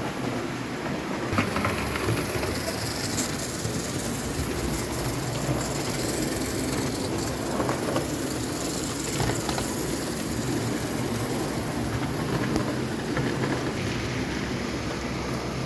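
JEP O-scale tinplate electric railcar running on its track: a steady motor hum and wheel rumble with occasional short clicks.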